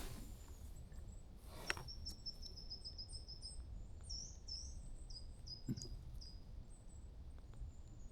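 Small songbird singing faintly: high, thin notes, a quick run of them about two seconds in, then separate chirps. Two soft knocks, the first about two seconds in and the second near the middle.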